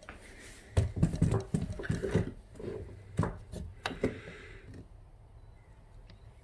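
A quick run of irregular knocks and clunks over about three seconds, the sound of gear being handled and set down while the camera is repositioned, then quiet room tone. No engine is running.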